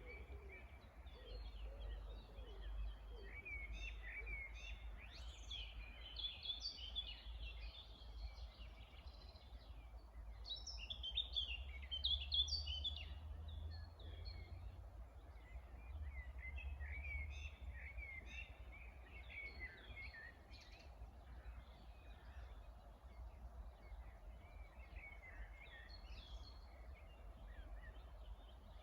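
Several songbirds singing together in a spring chorus, with overlapping chirps and trills. The song is busiest around a quarter and a third of the way in. A steady low rumble runs underneath.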